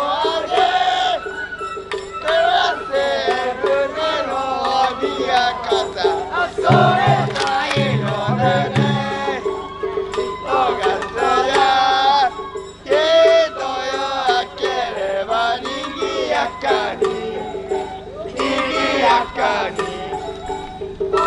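Japanese float-festival music with a crowd of voices shouting and chanting along over it, dense and loud throughout, with a steady held tone underneath. A deeper sound comes in briefly about seven to nine seconds in.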